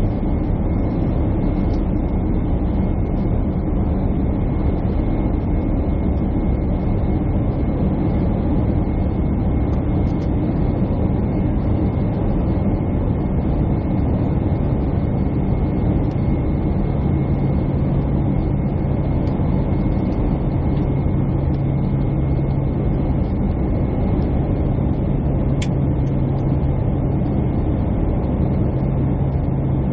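Steady engine and airflow noise inside a jet airliner's cabin, with a thin constant whine above it. A low hum grows stronger about halfway through.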